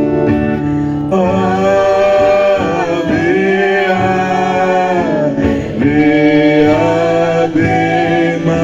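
Voices singing a Catholic devotional hymn in long, held phrases over instrumental accompaniment.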